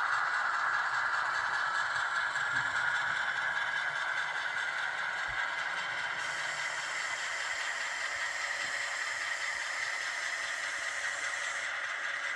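HO scale model train running along the track: a steady whirring of motor and wheels with a light rattle. A thin high hiss joins in about halfway through and stops near the end.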